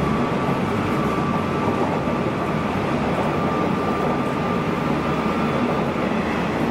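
Nishitetsu electric train running at speed, heard from inside the car: a steady rumble of wheels on the rails and running gear, with a faint high steady tone that fades out near the end.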